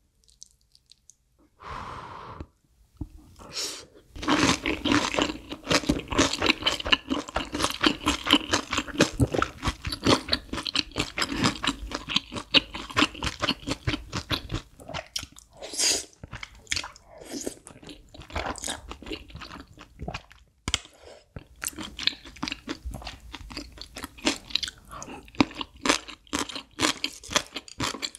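Close-miked chewing of crisp deep-fried breading, eaten with soft creamy noodles: dense, rapid crunching that starts about four seconds in, with a brief pause later on.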